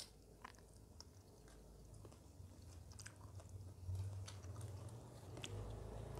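Faint close-up chewing with scattered soft mouth clicks, from fresh kemangi (basil) leaves being eaten.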